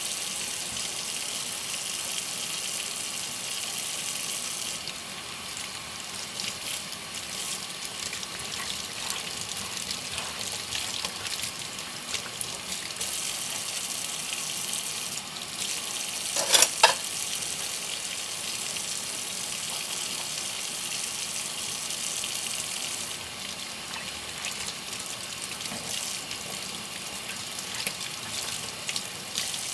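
Dishes being hand-washed at a kitchen sink: a steady hiss of running tap water and scrubbing, with a few light knocks and a sharper clatter of dishes about halfway through.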